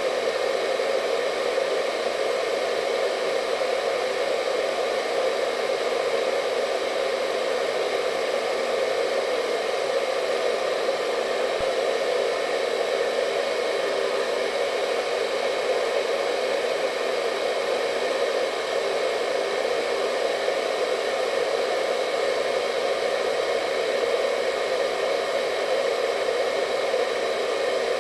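Hair dryer running steadily: an even rushing hum of air with a faint whine above it, unchanging throughout.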